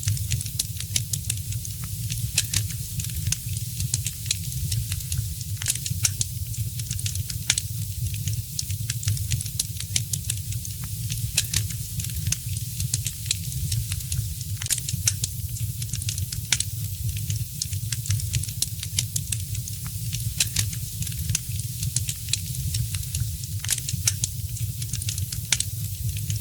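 Fireplace fire crackling, with many sharp, irregular crackles and pops over a steady low rumble and hiss.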